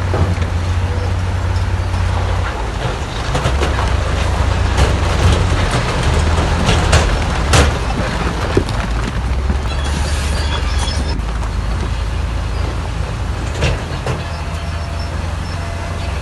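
Heavy diesel earthmoving machinery running under varying load, the low engine note rising and falling, with a few metallic knocks and a short hiss about ten seconds in.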